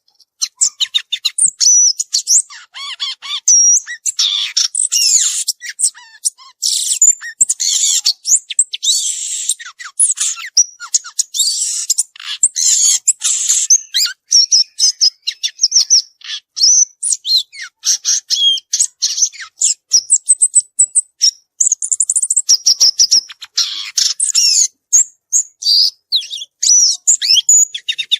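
Violaceous euphonia singing a long, rapid, varied song of high chirps, twitters and quick trills, with only brief pauses.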